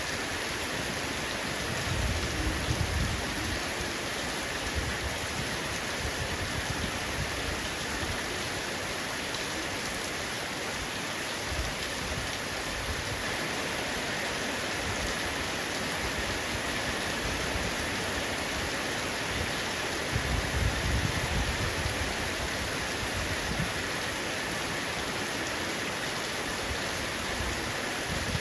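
Heavy rain falling steadily on a roof, a dense even hiss of drops. Low rumbles swell underneath twice, about two seconds in and again about twenty seconds in.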